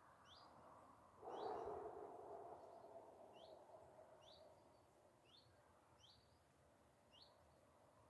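Faint outdoor ambience with a bird giving short, high single chirps about once a second. A faint low noise comes in about a second in and slowly fades away.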